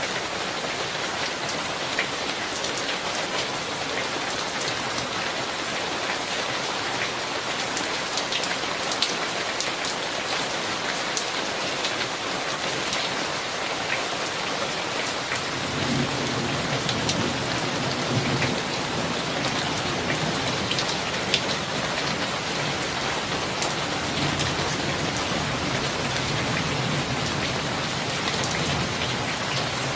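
Steady rain falling during a summer thunderstorm, with scattered sharp drop ticks. About halfway through, a low rolling rumble of thunder comes in and carries on through most of the rest.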